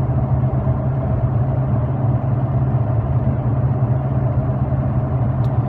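Steady low drone of a 2003 Ford F-150's 5.4-litre V8 through a Flowmaster 40 series muffler, running at an even speed with no revving.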